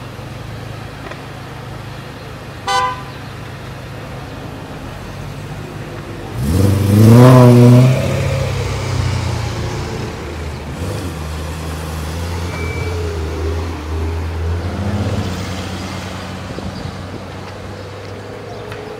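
Sports-car engines idling, a short car-horn toot about three seconds in, then an engine revs hard as a car accelerates away from standstill: a sudden loud note that rises in pitch for about a second and a half. A loud engine note then carries on as the cars drive off and eases toward the end.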